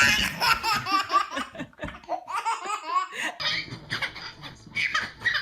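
Hearty laughter in quick repeated bursts, possibly a child's. A little over three seconds in, the background changes and more laughter and voices follow.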